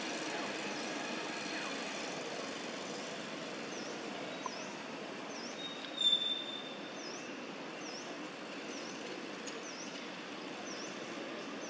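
Steady outdoor background hiss with a bird repeating a short, high, dipping chirp a little under twice a second, and one brief louder high squeak about six seconds in.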